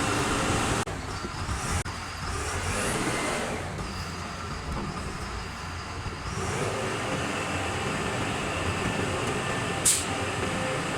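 Self-loading concrete mixer truck's engine and machinery running steadily. The sound changes abruptly about one and two seconds in, and there is a short sharp hiss near the end.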